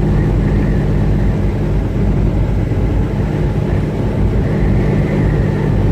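Semi truck's diesel engine and road noise heard from inside the cab while driving at steady speed: a constant low drone with a steady hum.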